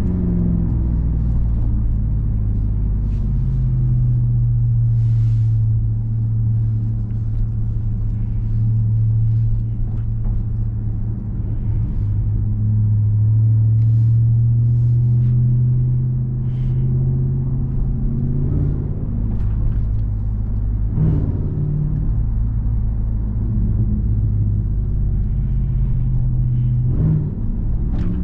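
2021 Ram 1500 TRX's supercharged 6.2-litre V8 running under way at a steady cruise, a deep, even drone. Its pitch rises slightly and falls back in the middle, with a few brief shifts near the end.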